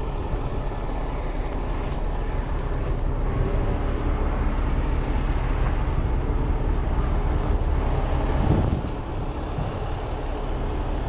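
Tow truck engine running steadily, with a brief swell about eight and a half seconds in before it settles a little lower.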